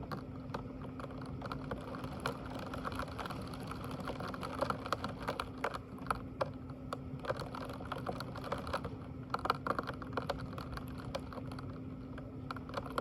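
Irregular, rapid light clicks and taps, bunching into quick runs in places, over a steady low hum.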